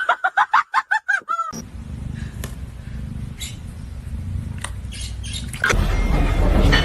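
A rapid run of about eight short, high chirping animal calls in the first second and a half, then a steady low hum with a few faint clicks. The noise gets louder near the end.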